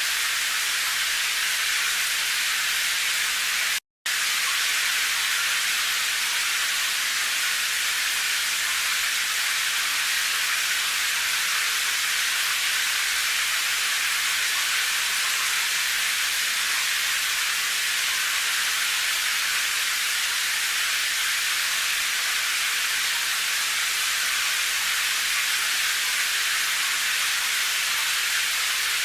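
Steady rain falling as an even, unbroken hiss, with a split-second dropout to silence about four seconds in.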